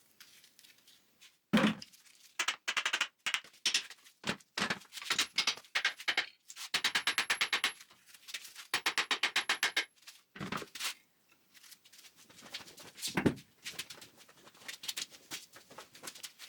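Hand tools working on metal car parts: scattered knocks and clatter, with two runs of quick, even clicking about a second long each, around the middle.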